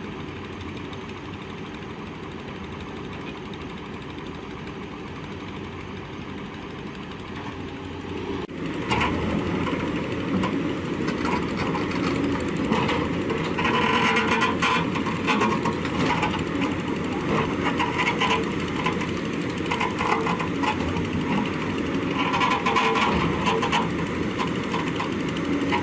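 Heavy machinery engine running steadily. About a third of the way in the sound cuts abruptly to a louder machine sound with bursts of harsher noise.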